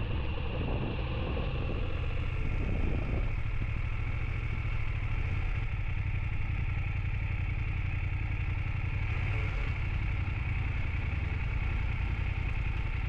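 BMW F800GS parallel-twin motorcycle engine running steadily, a constant low engine sound with noise above it.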